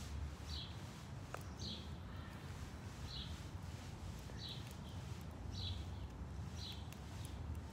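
A songbird repeats a short high chirp about once a second, over a steady low outdoor rumble, with a few faint scattered clicks.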